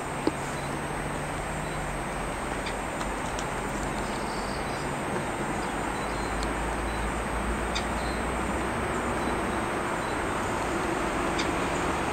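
Steady rushing of river water, with a low rumble from passing traffic that swells in the middle and a few faint, short bird chirps. There is a single click just after the start.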